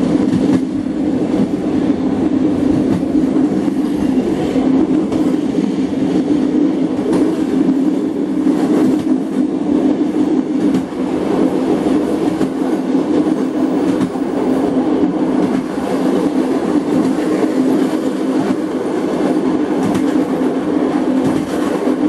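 Passenger train running at speed, heard from inside the train. There is a steady rumble with a low droning hum and a few wheel clicks over the rails.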